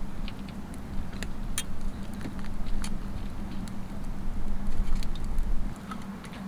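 Wood campfire crackling, with scattered sharp pops a few times a second at most, over a low steady rumble and hum.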